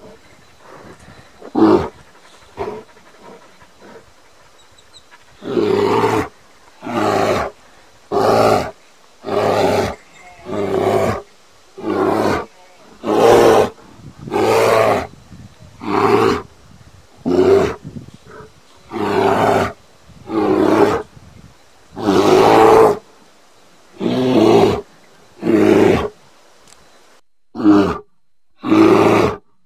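Bear roaring over and over in a steady rhythm, about one short roar every second and a half. A couple of brief grunts come first, and the regular roaring starts about five seconds in.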